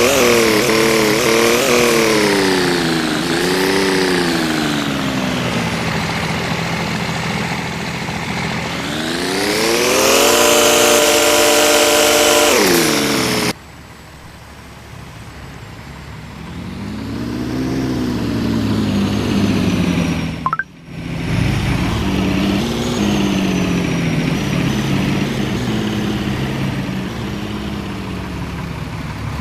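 Truck engines revving up and down again and again, with one long high rev held for a few seconds about ten seconds in. The sound drops off suddenly partway through, then picks up again with more revving and steady running.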